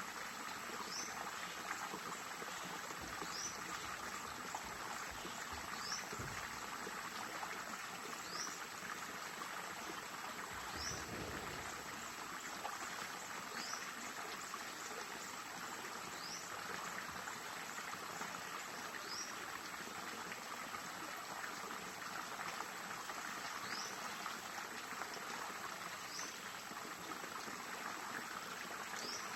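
Stream water flowing and trickling steadily. A short, high, rising chirp repeats about every two to three seconds over it.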